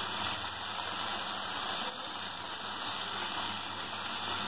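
Chutney-marinated paneer pieces sizzling in hot oil in a nonstick pan, a steady frying hiss.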